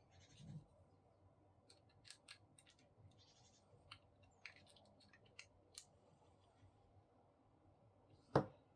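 Faint, scattered clicks and short scrapes of plastic laminator parts being handled and pried during disassembly, with one sharper click near the end.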